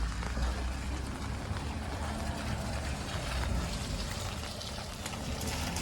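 Rainy street ambience: a steady hiss of rain and wet road noise over a low, wavering rumble of vehicles.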